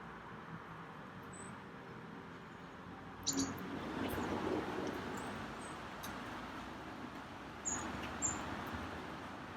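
Small birds giving a few short, high chirps spread through, over a steady background rush that swells about three seconds in and then eases.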